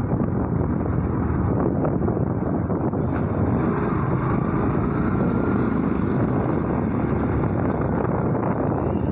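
Motorcycle running at steady speed, heard through a steady rush of wind over the rider's microphone.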